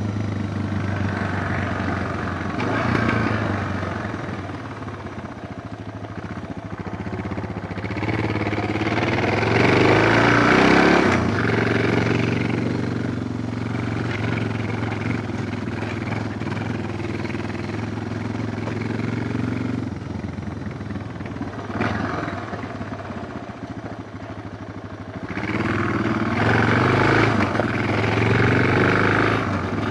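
Suzuki DR650's single-cylinder four-stroke engine running as the bike is ridden, with two stretches of harder throttle, about a third of the way in and again near the end.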